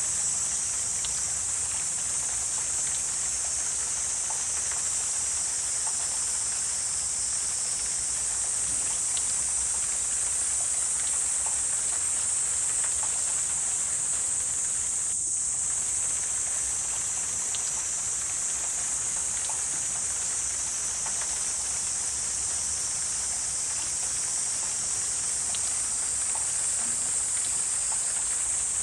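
Wetland ambience dominated by a steady, high-pitched insect chorus, with scattered faint ticks and a brief dropout about halfway through.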